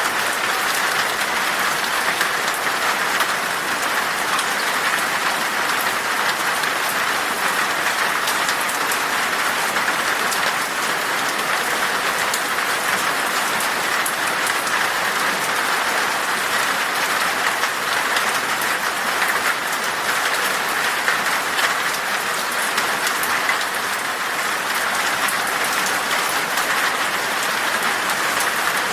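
Steady rain falling in a forest: an even, continuous hiss flecked with many small drop ticks.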